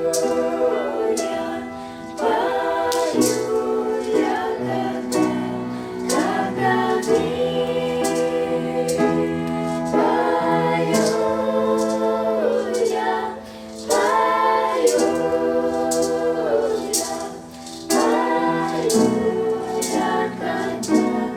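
Voices singing a Christian song together in harmony, in long held phrases with short breaks between them.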